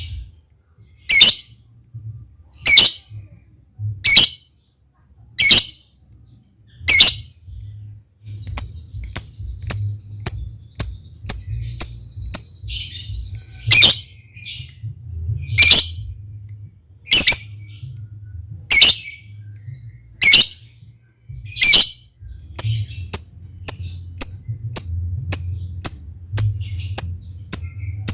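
Lovebird calling: sharp, shrill calls repeated about every one and a half seconds. After about eight seconds, quicker, higher ticking calls come in several a second between them (the lovebird's 'ngetik'). A faint low hum runs underneath.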